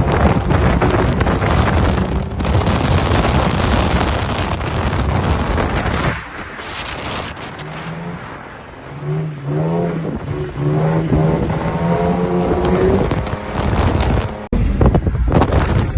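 A drift ute's engine being revved up and down while drifting, the revs climbing and falling several times over a loud rushing noise. There is a sudden break near the end.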